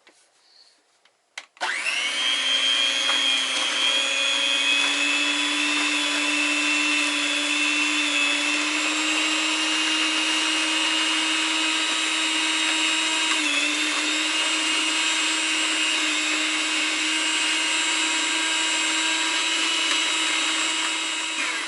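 Electric mixer switched on about a second and a half in, spinning up to a steady motor whine that creeps slightly higher in pitch, with a brief dip past the middle, then switched off near the end. It is creaming a stick of butter with white and brown sugar, and the butter is too firm to cream well.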